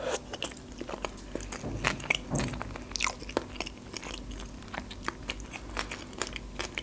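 A person biting into and chewing a salmon sushi roll with cream cheese, close up: irregular short wet clicks from the mouth.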